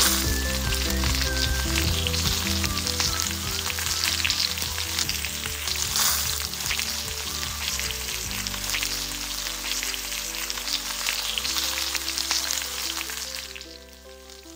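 Food frying in hot oil in a miniature pan: a dense, crackling sizzle that dies away near the end, with background music underneath.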